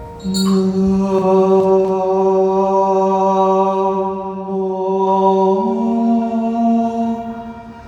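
Chanting voice holding one long, steady note with a rich stack of overtones. The note steps up slightly in pitch about two-thirds of the way through, then fades away near the end.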